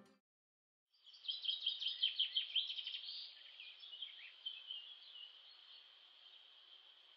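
Small birds singing in a forest: a quick run of chirping, sweeping notes starts about a second in, then thins to a softer, continuous high trilling.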